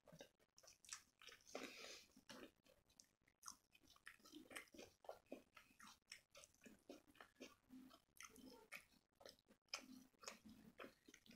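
Close-miked, quiet chewing of soft lachha paratha dipped in palak paneer, an irregular run of small wet clicks and smacks from the mouth.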